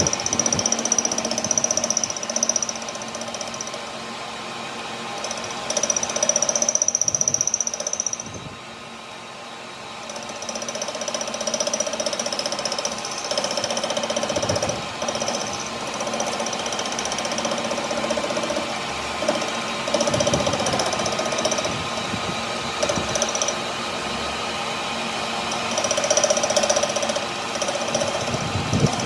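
A power machine tool running steadily, with a constant hum and a high whine over a rattling mechanical noise. It eases off for a moment about eight seconds in and then picks up again.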